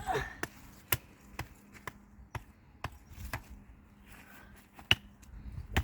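A wooden stick being struck repeatedly against wood: about a dozen sharp knocks at uneven intervals, roughly two a second, with a short pause about four seconds in.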